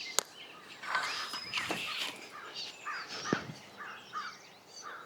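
Wild birds calling and chirping, many short repeated calls overlapping, with a sharp click just after the start.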